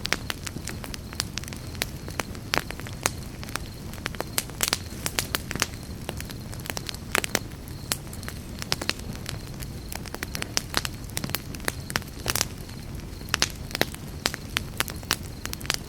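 Wood campfire crackling, with frequent sharp irregular pops and snaps over a steady low rumble of the burning fire.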